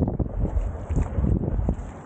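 Wind buffeting the microphone aboard a moving boat on the water, a low uneven rumble that rises and falls in gusts.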